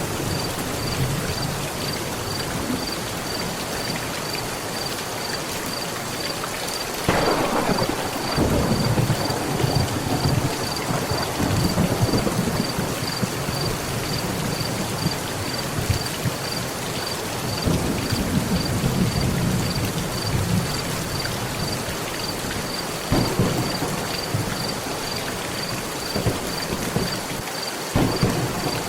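Steady heavy rain drumming on a metal roof, with thunder: a sharp crack about seven seconds in that rolls into a long low rumble, then two shorter cracks later and near the end.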